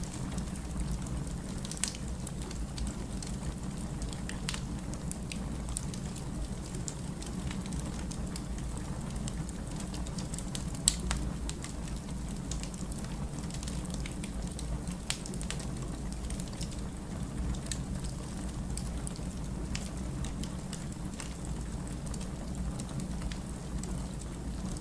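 Firewood burning in a fire: scattered crackles and pops over a steady low rumble, with one sharp pop about eleven seconds in.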